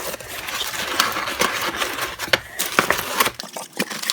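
Rustling of packing material with scattered light clicks and knocks as items are handled and taken out of a parcel.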